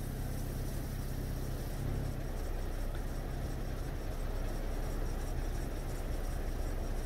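Steady low rumble of a car's engine and road noise, running evenly throughout.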